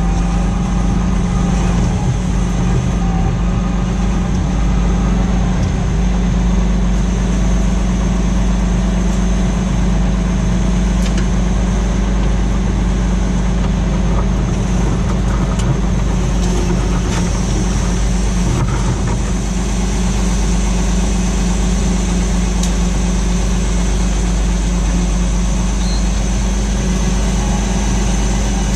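Tractor engine running steadily at a constant pitch as it pulls a plough through the field, with a steady thin high whine over the low drone.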